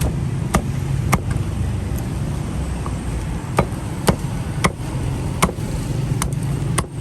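A cleaver chopping grilled meat on a cutting board: about nine sharp, separate knocks at an uneven pace. Under them runs a steady low hum of street traffic.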